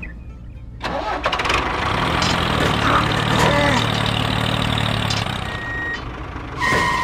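Tractor engine running steadily after starting abruptly about a second in. A short beep sounds near the end.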